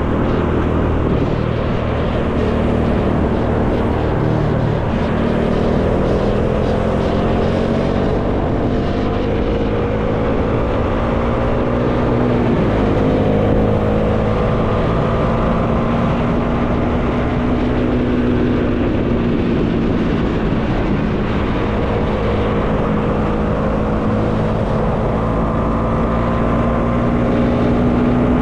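Bajaj Dominar 400's single-cylinder engine running under way, its pitch climbing slowly with brief drops about five and twelve seconds in, over steady wind noise.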